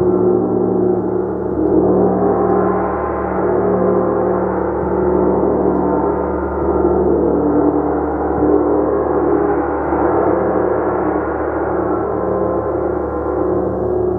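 Gong kept sounding continuously, a dense wash of many overlapping sustained tones that swells and eases every few seconds.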